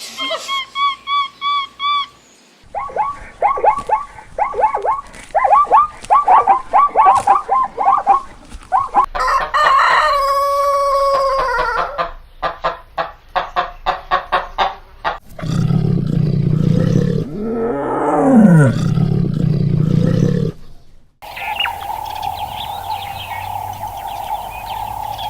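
Chickens clucking in quick runs of short calls, and around ten seconds in a rooster's long crow that rises, holds and falls. Later comes a loud low rumbling noise, and near the end a steady hum.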